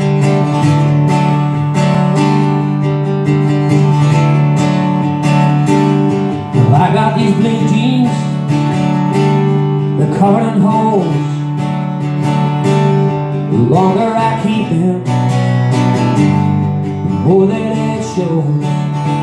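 Acoustic guitar strummed live as a song's intro, sustained chords ringing steadily. Four short gliding melodic phrases rise and fall over it.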